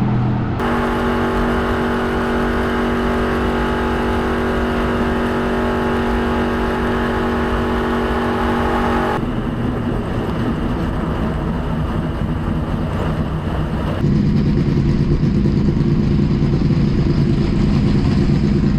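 NASCAR stock car's V8 engine running hard at high speed around the track, holding a steady pitch. The sound changes abruptly about half a second in, again about nine seconds in, and at about fourteen seconds, as if separate clips were joined.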